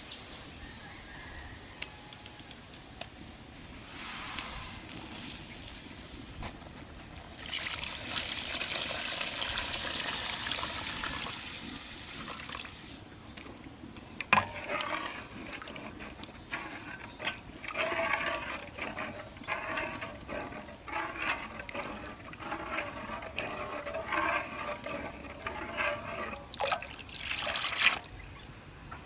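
Water pouring or splashing for about five seconds, then a string of short, irregular wet knocks and splashes, over a steady background of insects.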